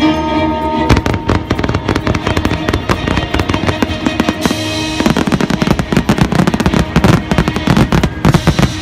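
A dense barrage of fireworks: rapid bursts and crackling, many per second, starting about a second in, over music playing underneath.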